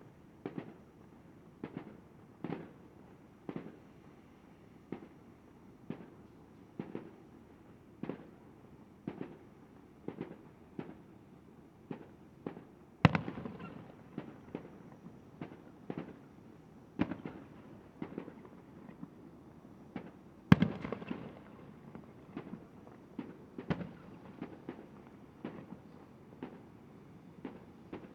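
Fireworks display: a steady run of firework bangs about one a second, with two much louder bangs about halfway through and again about two-thirds through, each ringing on briefly.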